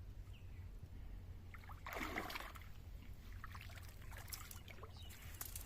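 Water splashing, with one larger splash about two seconds in and lighter splashes and drips later, over a low steady rumble.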